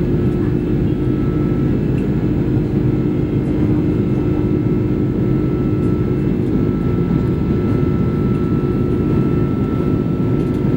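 Airbus A330 jet engines running steadily: a continuous deep rumble with a steady hum and a faint thin high tone above it.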